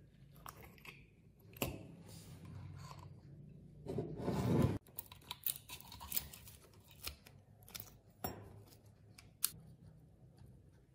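Hand work at close range: a run of sharp clicks and short cutting or scraping noises, with a louder rasping noise lasting just under a second about four seconds in.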